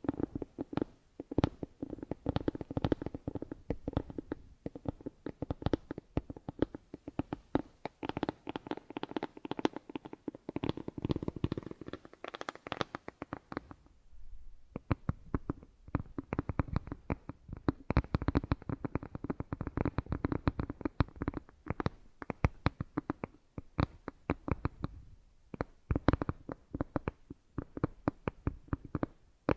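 Close-miked ASMR trigger sounds: a dense, rapid run of crackly taps and scratches right at the microphone, with a brief pause about halfway through.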